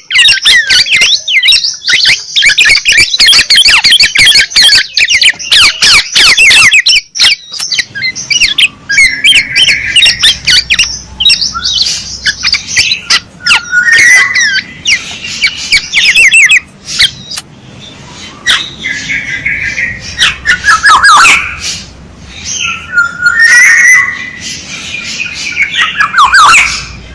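Oriole calls from a decoy-call recording: a dense run of rapid, harsh calls for the first seven seconds or so, then separate bursts of calls with downward-sliding notes. Loud throughout.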